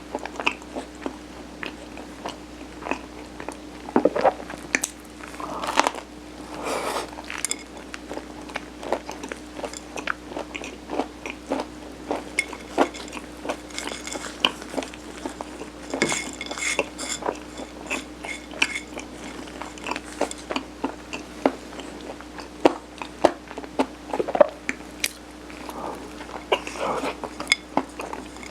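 Close-miked chewing and biting of mung-bean sirutteok, a steamed Korean rice cake: wet mouth sounds and many small sharp clicks, over a faint steady hum.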